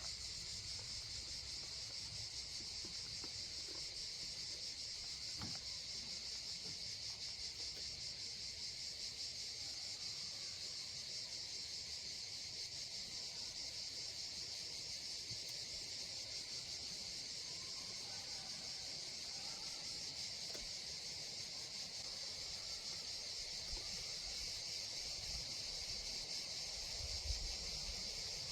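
Summer forest insects, a steady high-pitched chorus that never breaks.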